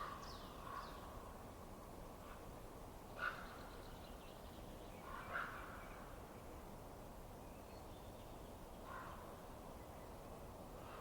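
A few short, harsh bird calls, two of them louder about three and five and a half seconds in, over a steady low background noise.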